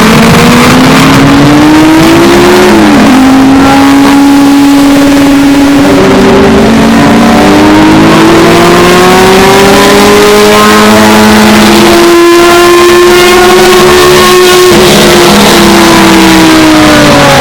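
Historic Group C race car engines at high revs, their pitch climbing through the gears with sudden drops at the upshifts, about 3, 6 and 15 seconds in. The recording is heavily overdriven and distorted.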